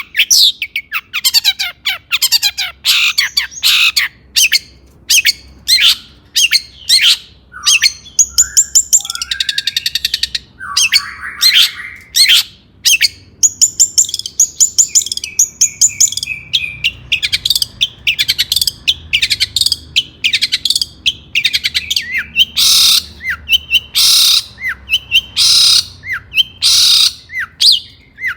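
Long-tailed shrike (cendet) singing loudly: a fast, varied string of sharp chips and falling whistles, with buzzy trills about a third of the way in and again around the middle, and harsh scratchy notes near the end.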